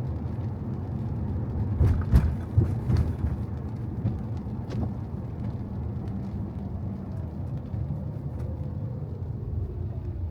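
A car driving, with a steady low road and engine rumble. There are a few sharp knocks about two to three seconds in and once more near five seconds, and a faint falling whine near the end.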